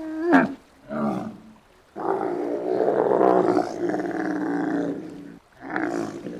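Giraffe calling: two short pitched calls, then a long drawn-out call of about three seconds starting two seconds in, and another short call near the end.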